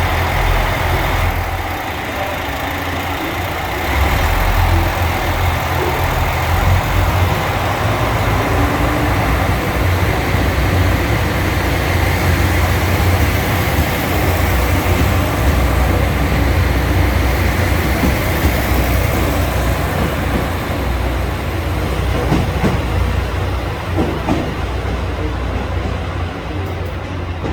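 HOT7000-series diesel railcar running: a steady, loud mix of engine drone and wheel and rail noise, growing louder about four seconds in.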